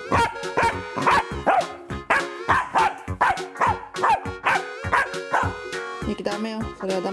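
Dogs barking in play, a Pembroke Welsh corgi and a corgi-dachshund puppy, in short sharp barks about two a second over background music.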